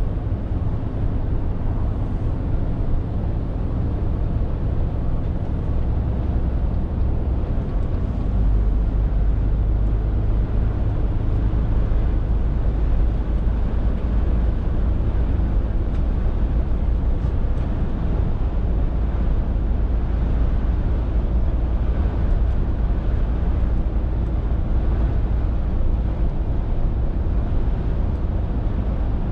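Scania R450 lorry's diesel engine running under way with steady road noise. The deep engine hum drops lower and grows stronger about eight seconds in.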